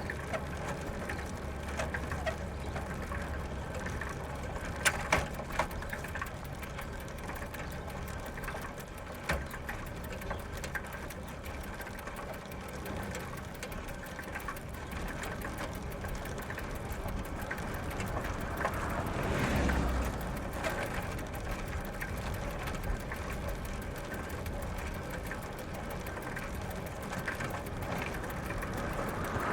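Bicycle ridden over gravel, its tyres and chain drivetrain running steadily, with a few sharp clicks about five seconds in. Road traffic passes, one vehicle swelling up and fading away about two-thirds of the way through.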